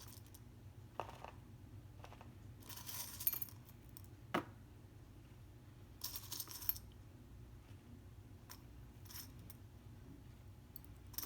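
Small pebbles clinking against each other as they are picked up and set down by hand, in short clusters of clicks a few seconds apart, with one sharper click about four seconds in.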